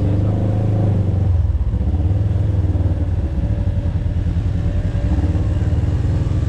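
An off-road vehicle's engine running steadily, dropping to a lower, pulsing note about a second in.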